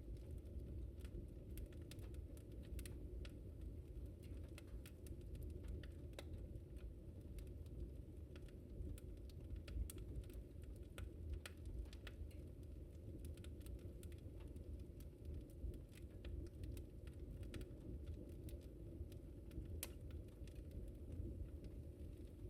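Wood fire in a fireplace crackling: many sharp, irregular pops and snaps over a low, steady rumble of the burning fire.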